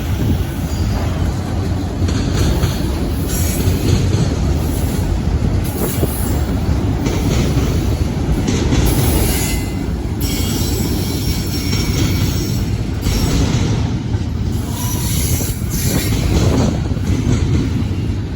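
Freight train cars rolling past, a steady rumble of wheels on rail with high-pitched wheel squeal coming and going.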